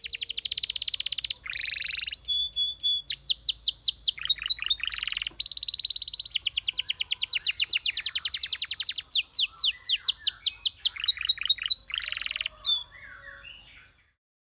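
A Belgian canary sings a long song of fast trills and rolls: quick runs of repeated notes and downward-sweeping chips, changing phrase every second or two. The song stops shortly before the end.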